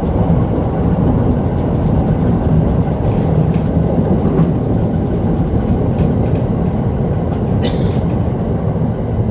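Sotetsu 10000 series electric train running steadily along the line, a continuous rumble of wheels and running gear heard from the front car, with an occasional sharp click.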